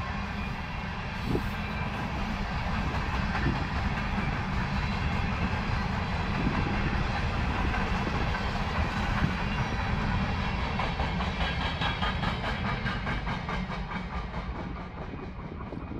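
Freight train of open-top hopper cars rolling past, its steel wheels rumbling and clattering on the rails, with a quick, even clicking in the second half. The sound eases off near the end as the cars move away.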